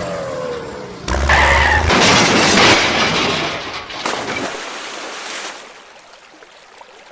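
Crash sound effect: a sudden low boom about a second in, then a long shattering, breaking-glass noise that fades away over the next few seconds.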